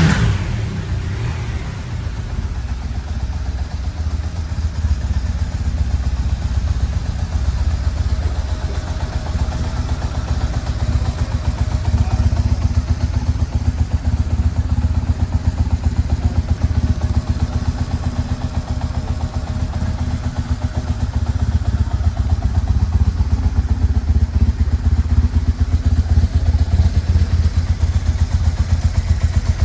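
BMW R1150GS motorcycle's air/oil-cooled boxer twin engine running steadily at low revs, a fast even low pulsing with no revving.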